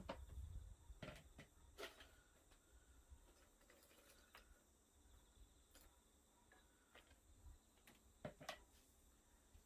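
Faint, sparse crackles and pops from a small wood fire burning in a wood stove: a few separate sharp clicks, with a close pair near the end, over a quiet background.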